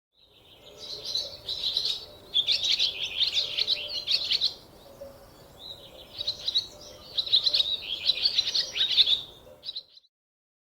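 Squirrel calling with rapid, shrill, bird-like chirps in two long runs, with a short pause about halfway through.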